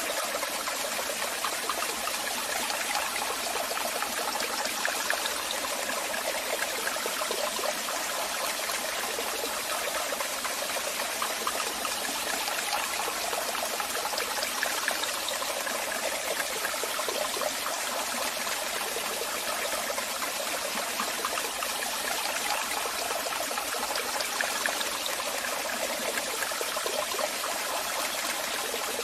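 Waterfall: a steady, unbroken rush of falling and splashing water, mostly high and hissing with little deep rumble.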